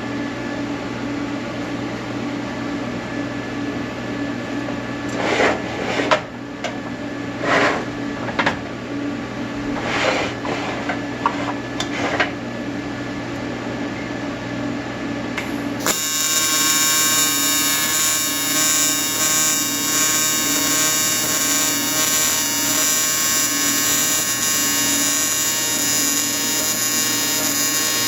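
Welding arc buzzing loudly and steadily, starting about two-thirds of the way in, over a constant machine hum. Earlier there are several short noisy bursts.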